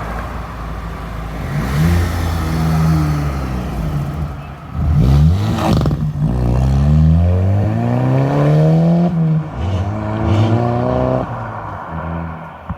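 Car engine accelerating away from the meet under hard throttle, its note climbing steadily in pitch, dropping sharply at a gearshift about nine seconds in, then climbing again before fading. A short, loud burst of noise about six seconds in.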